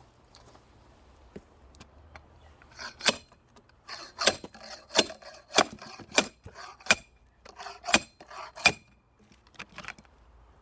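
A run of about ten sharp clicks or knocks, one every half-second to second, from about three seconds in to near the end.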